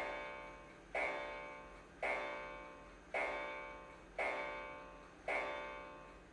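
A clock striking the hour, eleven strokes in all: evenly spaced ringing strokes about one a second, each fading away before the next.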